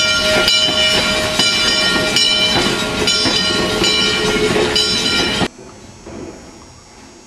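Steam train running on the track: a clatter of wheels with repeated sharp clicks and several steady high tones sounding over it. It cuts off suddenly about five and a half seconds in, leaving only a faint background.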